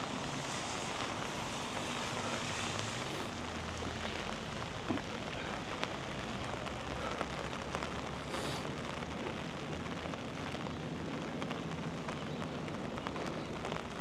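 Steady monsoon rain falling, an even hiss with occasional patters.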